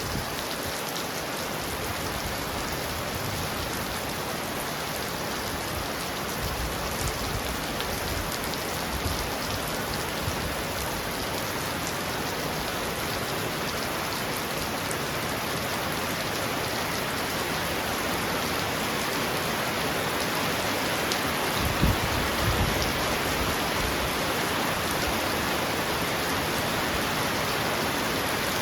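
Heavy rain pounding steadily on a roof, a dense even hiss that grows slightly louder toward the end, with one brief low thump about three-quarters of the way through.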